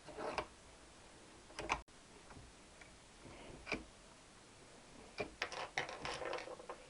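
Scattered light clicks and knocks of metal parts and hand tools being handled at a workbench, with a quick cluster of taps near the end.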